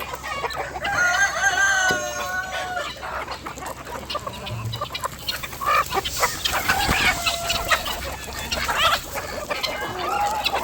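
Free-range chickens clucking, with a rooster crowing in one long wavering call about a second in and a shorter call later on.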